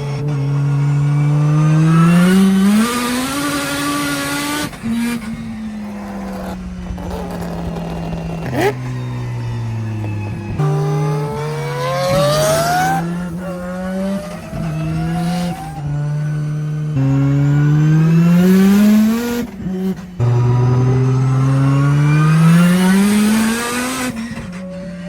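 A race car engine at full throttle on track, revving up in pitch over a few seconds and then dropping sharply at each gear change or lift, again and again. These are drifting laps.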